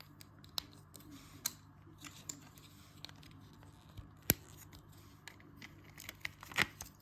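Plastic LEGO pieces clicking and tapping as they are handled and pressed together, a scattering of sharp single clicks with the loudest about four seconds in.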